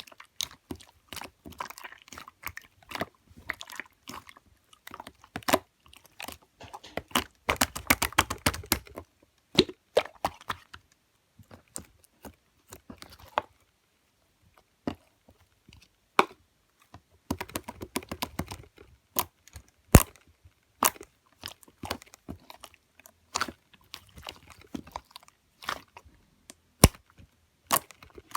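Green clear slime being pressed and stretched by hand, making sharp clicks and pops of trapped air. Twice the clicks come thick and fast as a crackling run; in between they come one at a time.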